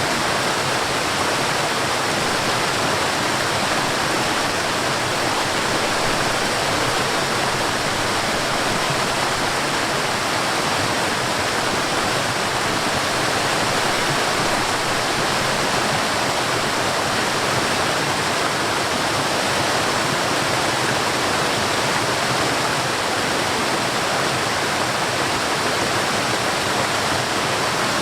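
Forest waterfall: a steady, even rush of falling and flowing water.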